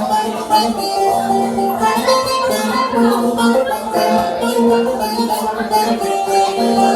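Instrumental interlude of a Turkish folk song: a melody plucked on a bağlama (saz), with no singing.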